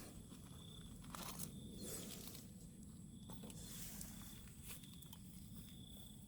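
Quiet outdoor ambience with a few soft rustles or crunches, about one, two and four seconds in, over a low steady background hum.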